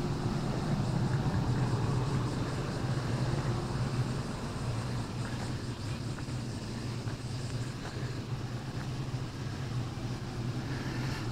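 A JR West 115 series 1000 subseries electric train standing at the platform, its onboard equipment giving off a steady low hum and whir while it waits.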